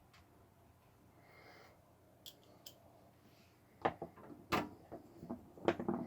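Hard plastic and metal clicks and knocks from hardware and cable connectors being handled inside a desktop PC case. A few light ticks come first, then a run of louder clacks in the second half.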